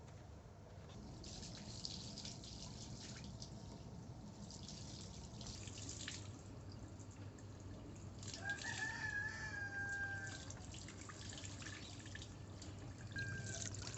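A rooster crowing once, a drawn-out call of about two seconds roughly two-thirds of the way through, over faint scattered clicks and rustling.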